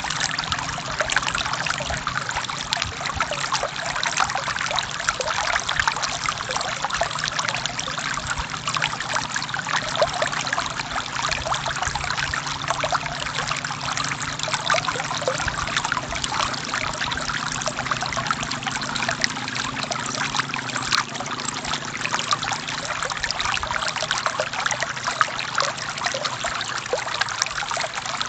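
Forest stream water flowing and splashing over rocks, a steady dense trickling and babbling.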